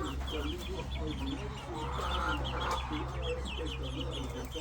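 A flock of hens clucking and chattering in the coop, with many short calls overlapping continuously over a steady low hum.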